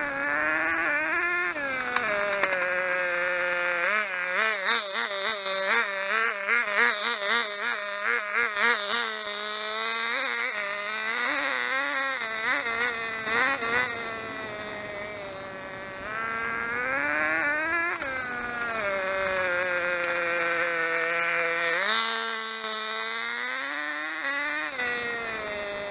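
Small model glow engine of a 1/16 radio-controlled Enzo Ferrari car running at high revs, its pitch rising and falling as the throttle is worked. From about 4 to 10 s the revs wobble up and down quickly, about two times a second, and near the end they drop and climb again.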